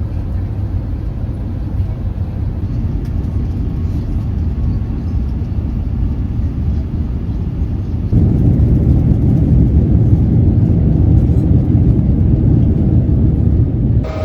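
Airbus A350-1000 cabin noise: a steady low rumble of engines and airflow, stepping up louder about eight seconds in.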